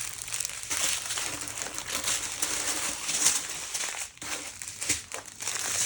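Small plastic bags of diamond-painting drills crinkling irregularly as they are handled and sorted, with a few sharper clicks in the second half.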